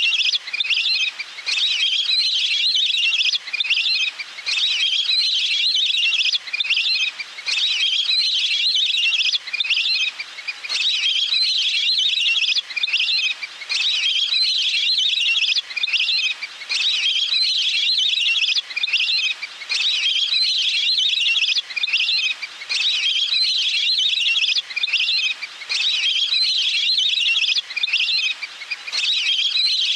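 Recorded call of a wild water bird ('water duck', นกเป็ดน้ำ) played as a lure: a high chirping call phrase repeated over and over, a new phrase about every one and a half seconds with short gaps between.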